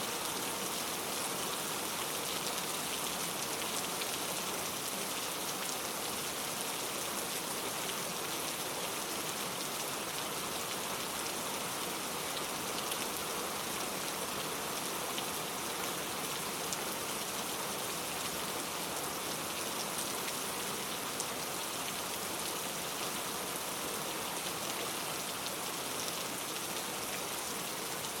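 Steady rain falling without thunder, an even hiss of heavy rain with scattered individual drop ticks.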